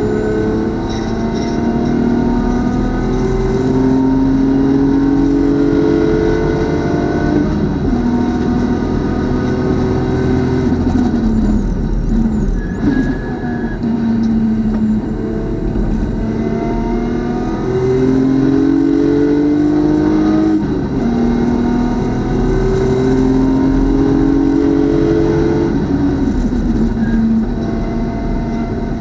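BMW club race car's engine running hard on track, pulling through the gears: the pitch climbs steadily and drops sharply at each upshift, about a third of the way in and again about two-thirds in. Around the middle the pitch falls and breaks up as the car slows for a corner, then it climbs again.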